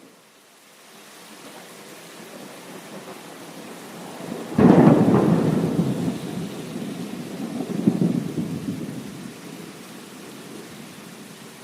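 Steady rain hissing, broken a little before halfway by a sudden thunderclap that rumbles on, swells again a few seconds later and dies away into the rain.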